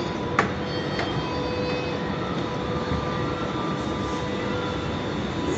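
Steady rumble and hum of a Namo Bharat RRTS train at the station, with a few steady whining tones over it. Two sharp clicks in the first second.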